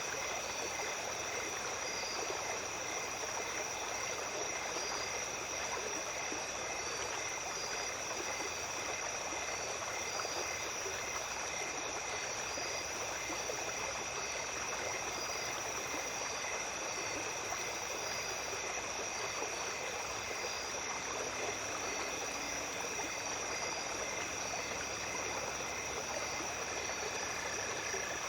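Small stream babbling steadily, with insects singing over it: a continuous high trill and regularly repeated chirps.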